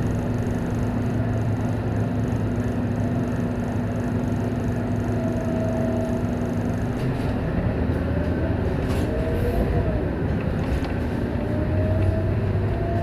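Scania K230UB single-deck bus with its five-cylinder diesel engine running on the move, a steady low drivetrain rumble and hum. About seven seconds in the hum changes, and a whine rises and falls over the following few seconds as the bus changes speed.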